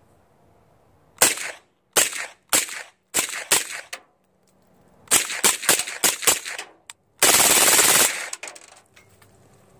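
Suppressed PTR 9CT, an MP5-pattern 9mm, firing Tula steel-case ammunition. Single shots come at about a second apart, then quicker from about five seconds in. The string ends with a continuous burst of about a second, the loudest part.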